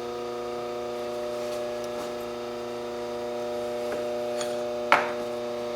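Steady electrical hum with several even overtones, typical of mains hum from shop equipment, with a few light ticks and one sharper click just before the end.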